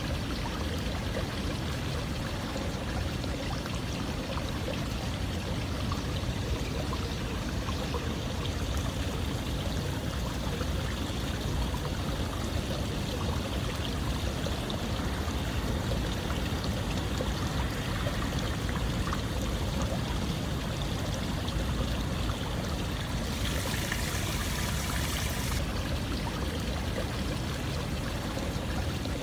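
Running water flowing and splashing steadily, like a stream, with a brief brighter hiss near the end.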